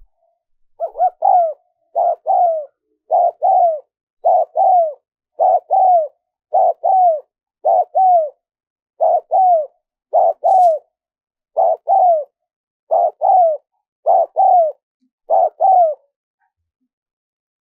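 Spotted dove cooing: a two-note coo phrase, each note dropping in pitch at its end, repeated about thirteen times at an even pace of a little over a second apart, then stopping near the end.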